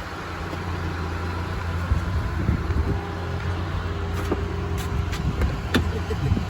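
Car cabin noise while driving: a steady low engine and road rumble, with a few light knocks around the middle.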